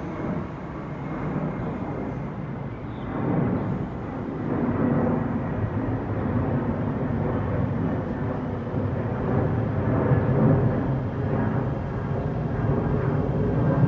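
Taiwan Railway train running through a station: a steady low rumble that swells about four seconds in and again near ten seconds.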